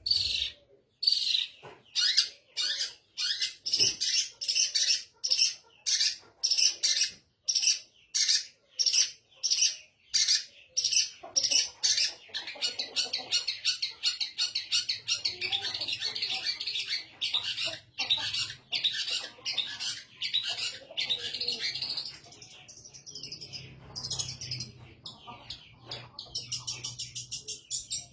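Long-tailed shrike in full song: loud, harsh, scratchy notes repeated about twice a second, then, about twelve seconds in, running into a near-continuous chattering warble before breaking into shorter varied phrases.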